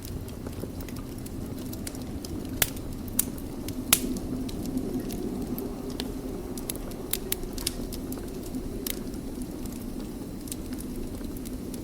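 Wood fire burning in a fireplace, a steady low rushing flame sound with irregular sharp crackles and pops, a few louder pops about three to four seconds in.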